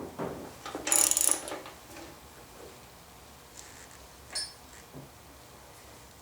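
Metal tools and hardware being handled: a short metallic rasp about a second in and a single ringing clink near four and a half seconds.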